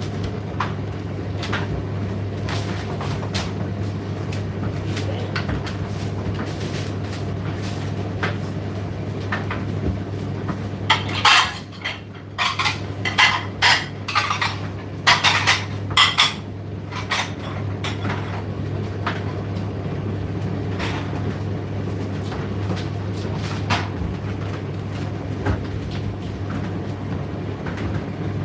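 Indesit IDC8T3 condenser tumble dryer running with a steady hum and light ticking. About eleven seconds in comes a burst of loud clattering knocks that lasts several seconds.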